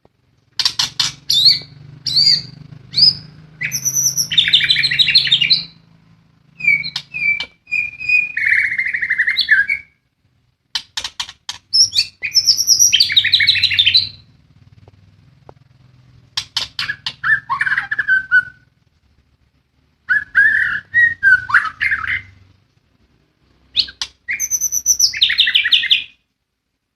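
White-rumped shama (murai batu) singing in loud bursts of a few seconds, about six phrases separated by short pauses. The song mixes rapid clicks, trills and whistled notes, including mimicked song of the sikatan londo.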